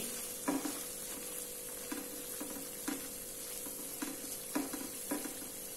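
Onion-almond paste with ginger-garlic paste and ground spices frying in oil in a non-stick kadai, sizzling steadily, while a silicone spatula stirs it with short scraping strokes every second or so.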